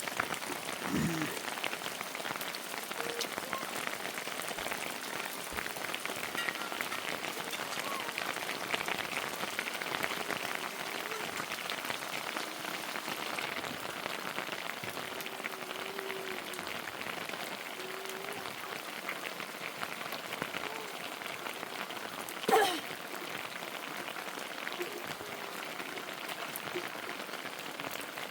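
Steady heavy rain, made of many separate drop hits. About two-thirds of the way through, a single short loud sound stands out above the rain.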